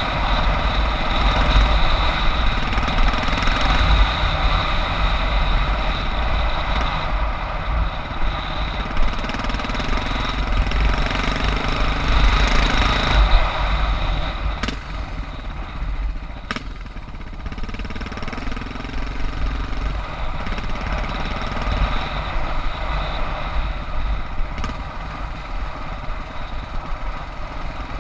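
Suzuki DR650's air/oil-cooled single-cylinder four-stroke engine running while being ridden, with a strong low thump. It eases off to a lower, quieter run about halfway through, and two sharp knocks are heard soon after.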